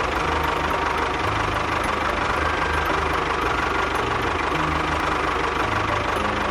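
Small engine running steadily with an even, rapid beat.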